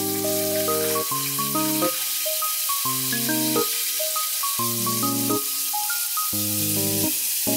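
Background music of held melodic notes and chords over a steady sizzle of food frying in hot oil.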